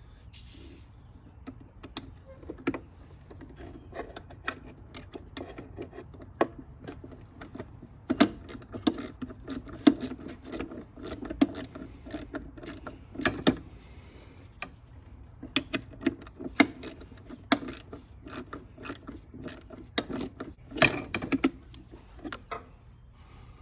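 Hand socket ratchet clicking in quick runs of strokes, with scattered metal tool clicks between them, as bolts are turned.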